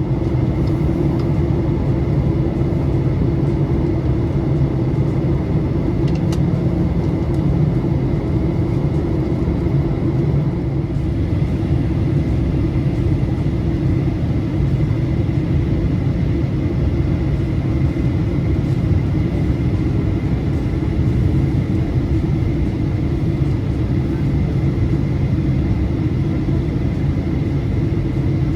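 Steady cabin noise inside a Boeing 737-800 airliner during descent: an even, deep rumble of engines and airflow with a thin steady whine above it.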